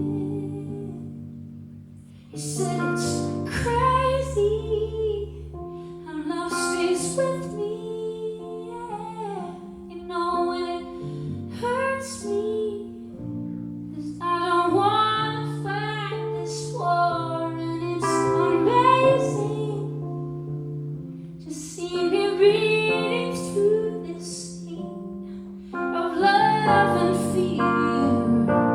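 Live performance of a slow ballad: a woman singing with a band, over held chords. The music dips briefly about two seconds in, then the singing comes back in.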